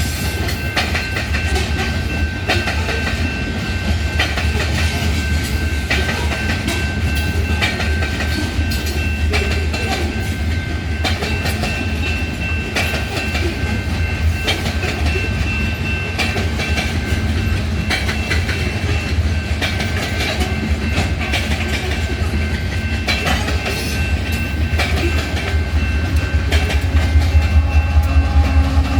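Freight train of hopper cars rolling past with a steady low rumble and wheels clicking over the rail joints. A thin, steady high squeal runs through much of it, and the sound grows a little louder near the end.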